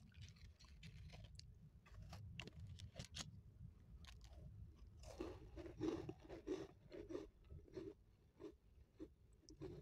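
Crunchy round cookie bitten and chewed close to the microphone: sharp crunches in the first few seconds, then steady chewing at about three chews a second.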